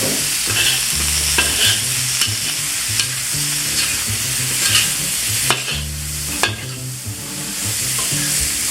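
Vegetables sizzling in a hot wok while they are stir-fried, with a steady frying hiss and the spatula clicking and scraping against the wok. The sizzle eases briefly just after the middle.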